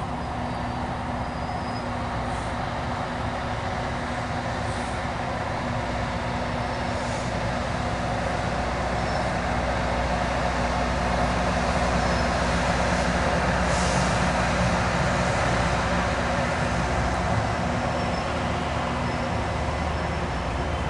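CSX rail grinder train running by on the track, its diesel engines and wheels on the rails making a steady rumble. The rumble grows louder toward the middle and eases a little near the end.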